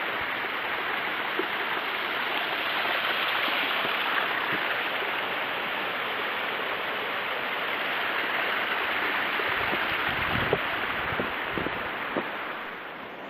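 A mountain stream running, a steady rush of water that eases off near the end, with a few soft low thumps toward the end.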